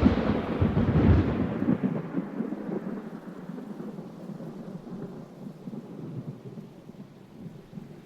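Thunder rumbling: loud at first, then rolling away and fading over the next few seconds.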